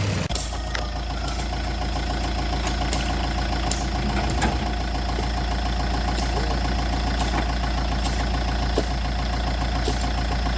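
Vehicle engine idling steadily with an even low chug, a few light clicks over it.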